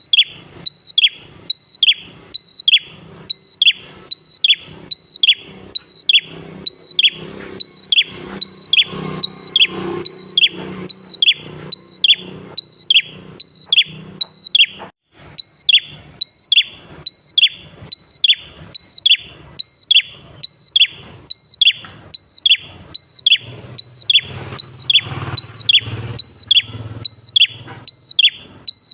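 A prinia (prenjak klawu) singing a fast repeated phrase: a short, steady high note and then a downward-falling slur, over and over at a little more than one phrase a second, with one brief break about halfway through.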